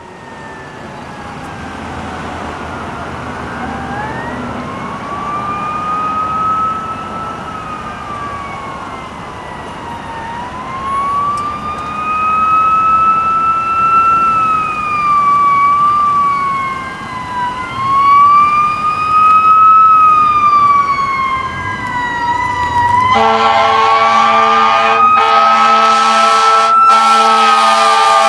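Emergency vehicle sirens wailing: several slow rising-and-falling sirens overlap and grow louder as fire apparatus approach. About 23 seconds in, a loud, steady horn blast starts over the sirens and repeats in pulses near the end.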